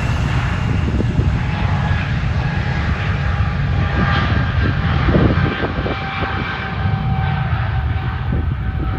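A large fixed-wing aircraft's engines running close by: a deep, steady rumble with a few faint whining tones above it. The higher sound thins out toward the end.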